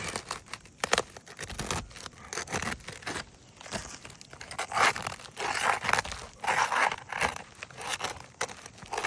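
Asphalt roof shingles tearing and scraping in irregular rasps as a flat bar pries them up from their sealant and nails. The shingles are ripping apart instead of lifting cleanly.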